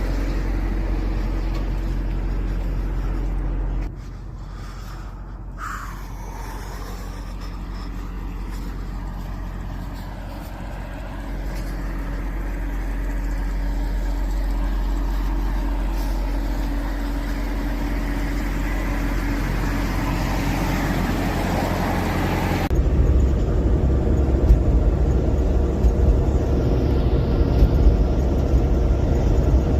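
Motor vehicle running: a steady low engine hum with road noise. The sound changes abruptly, dropping about four seconds in and growing louder and rougher near the end.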